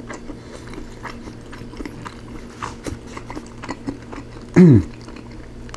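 Close-miked eating sounds of rotisserie chicken: wet chewing and small scattered clicks as the meat is pulled apart by hand. About two-thirds of the way through comes a short, falling 'mm' from the eater.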